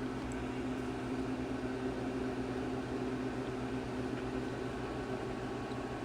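Steady mechanical hum with a constant low drone over even background hiss.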